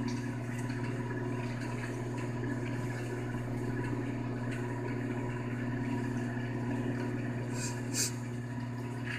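Steady electrical hum of a running microwave oven, with a short sharp click about eight seconds in.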